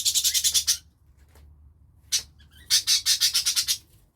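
Budgerigars chattering: two runs of quick, harsh, high-pitched calls, one at the start and one a little past halfway, with a single call just before the second run.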